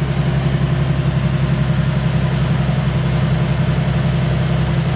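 Ford Mustang engine idling steadily, heard up close at the front wheel well.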